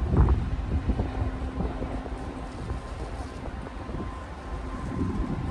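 Wind buffeting the microphone over a steady low engine rumble, with a faint steady hum running through it.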